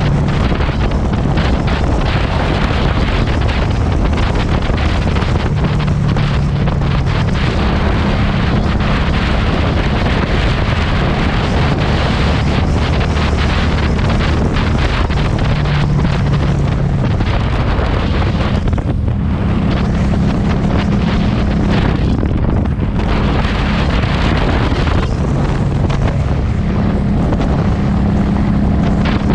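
Heavy wind noise on the microphone over the Harley-Davidson Street 500's V-twin exhaust note while riding. The engine's low tone steps up and down in pitch every few seconds.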